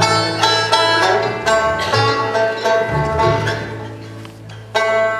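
Amplified five-string banjo plucked and strummed note by note, the strings left to ring, as it is checked for tuning, with a fresh strum near the end. A steady low hum runs underneath.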